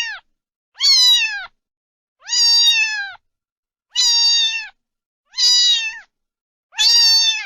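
Domestic cat meowing over and over, a long meow dropping in pitch at its end about every second and a half, some six times.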